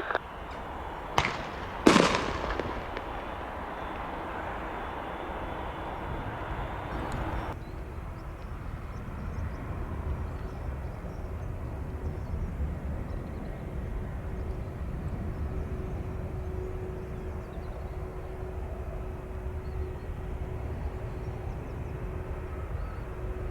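Two sharp clicks about one and two seconds in, then a hiss that cuts off suddenly. After that comes a steady low rumble from distant jet airliner engines, with a faint steady whine over it.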